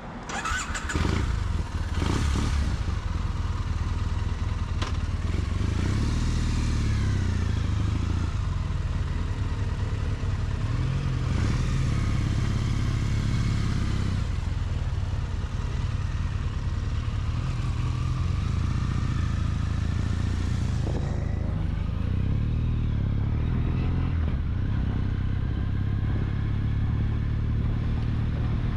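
Triumph motorcycle engine pulling away and riding on, rising in pitch several times as it accelerates through the gears, over a steady rush of road and wind noise.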